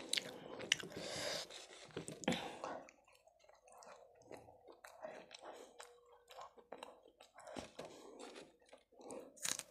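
Close-up chewing of brown bread with chicken curry, with wet mouth clicks and smacks. It is fullest in the first two or three seconds, then turns to softer scattered clicks, with a short louder burst near the end.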